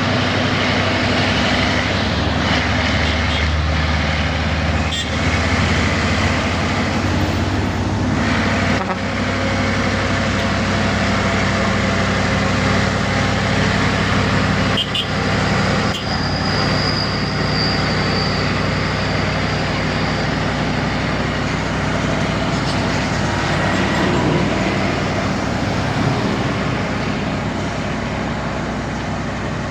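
Heavy truck engines running steadily with road traffic noise around them, and a few sharp clicks. A thin high tone sounds for a few seconds about halfway through.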